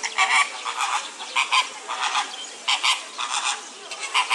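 Birds giving loud calls over and over, in short single or paired notes about one to two times a second.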